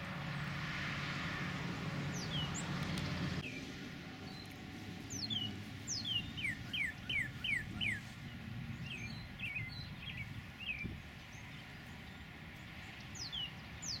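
Songbird singing series of quick down-slurred whistles, several in a row, in phrases starting about five seconds in. Before that a steady rushing noise that cuts off abruptly about three seconds in.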